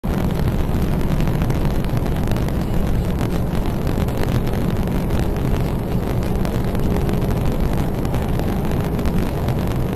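A car driving, heard through a dashboard camera's microphone: steady engine, tyre and wind noise.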